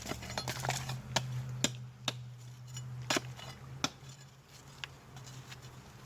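Sharp clinks of small hard objects, about five spread over the first four seconds, over a steady low hum.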